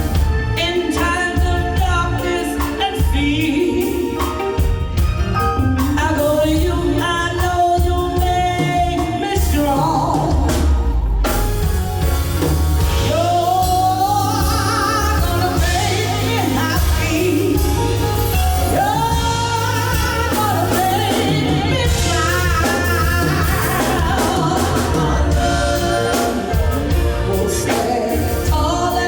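A singer performing live with a band: long sung notes with vibrato over steady bass and band accompaniment.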